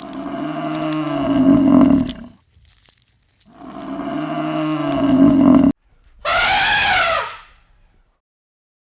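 A cow mooing: two long, low moos, the second cut off abruptly. These are followed by a shorter, higher animal call that rises and then falls in pitch.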